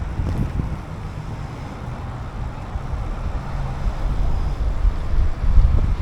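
Wind rumbling over the microphone of a camera on a moving bicycle, unsteady and swelling louder near the end.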